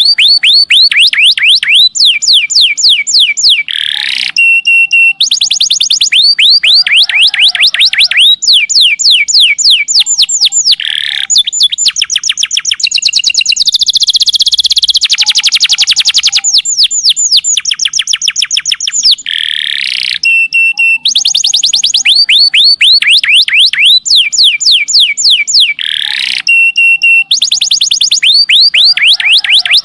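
Domestic canary singing a long, unbroken song of rapid trills: fast runs of falling whistled notes that switch to a new trill type every second or two, with a denser buzzing roll in the middle.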